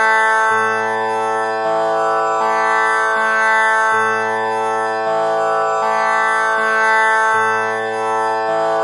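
Tanpura drone tuned to A, its strings plucked one after another in a slow repeating cycle, each note ringing on into the next with a dense shimmer of overtones.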